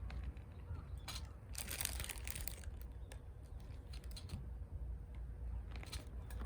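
Short bursts of crinkling and rustling from something being handled, the longest about a second and a half in, over a low rumble of wind on the microphone.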